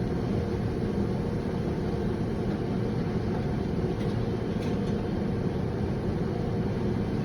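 Steady low rumble of a pickup truck's engine idling, with a faint steady hum, unchanging throughout.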